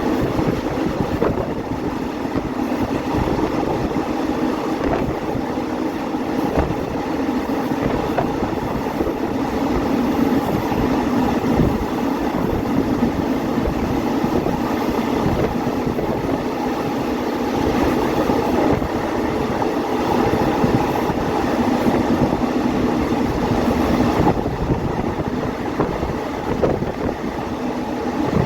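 Passenger train running along the line, heard from aboard: a steady rumble of wheels and carriage, with irregular clicks as the wheels pass over rail joints.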